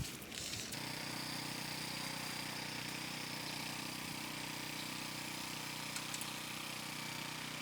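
An engine running steadily at idle, an even, unchanging hum that sets in about a second in.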